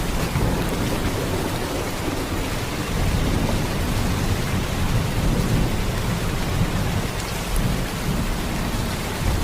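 Heavy rain in a steady downpour, a dense even hiss with a deep rumbling undertone.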